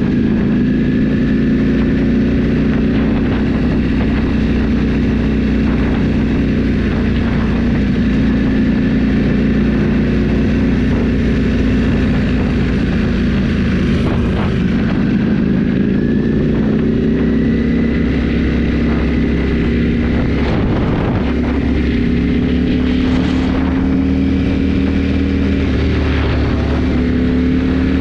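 Motorcycle engine running steadily while riding, its pitch slowly rising and falling with speed.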